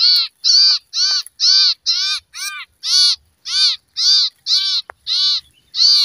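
Common iora giving short, harsh distress calls, about two a second, each call rising and falling in pitch: the alarm of a bird held after being caught on birdlime.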